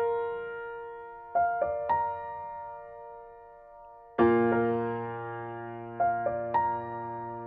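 Slow solo piano music: sparse notes and chords struck and left to ring out, with a fuller low chord about four seconds in.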